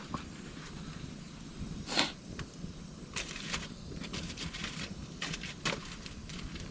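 Campfire crackling, with scattered sharp pops and snaps (the loudest about two seconds in) over a low rumble of wind.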